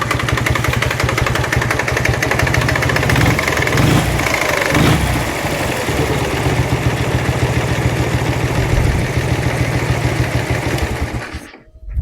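Dnepr-11 motorcycle's flat-twin engine running with an unexplained knock that stripping the engine did not trace. The revs rise briefly a few seconds in, and the engine cuts off near the end.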